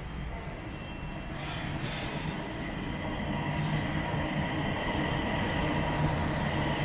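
A rubber-tyred BTS Gold Line driverless train approaching, its running noise growing steadily louder, with a steady high whine over a low hum.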